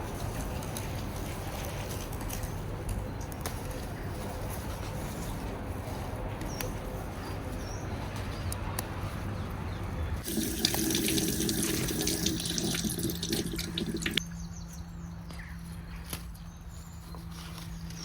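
Water running steadily, like a tap or hose. About ten seconds in the sound changes abruptly to a brighter, louder hiss, and about four seconds later it drops away, leaving a steady low hum.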